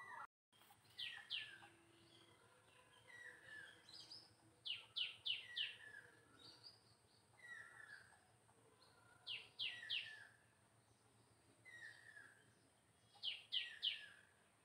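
Birds chirping: groups of two to four short, sharp, high calls come every few seconds, with lower slurred notes in between, over a faint hiss. The sound cuts out completely for a moment just after the start.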